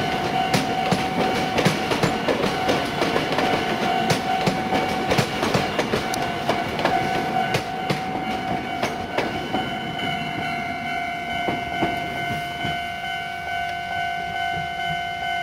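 Tobu 50090-series railcars being hauled past as an unpowered delivery, their wheels clacking over the rail joints, while a level crossing's warning bell rings steadily. The wheel clatter thins out about nine seconds in as the last car passes, leaving the crossing bell.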